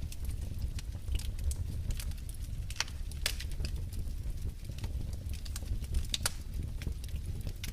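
Wood fire in a fireplace crackling: irregular sharp pops and snaps over a steady low rumble of the burning flames.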